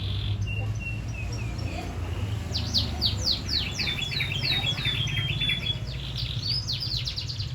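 Young canary practising its song: a few soft, thin notes, then about two and a half seconds in a quick run of falling whistled notes and trills. This is the halting practice song of a juvenile bird still learning. A steady low hum runs underneath.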